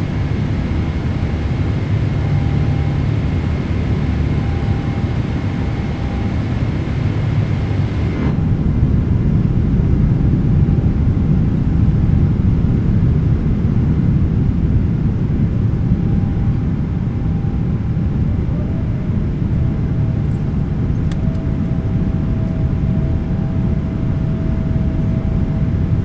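Boeing 777-300ER jet cabin noise in the climb after takeoff: a steady roar with a heavy low rumble from its GE90 engines and the airflow. About eight seconds in, the higher hiss drops away abruptly and the low rumble grows heavier.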